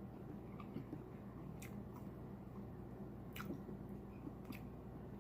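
A person chewing food with wet mouth clicks and lip smacks, several sharp smacks standing out from quiet chewing.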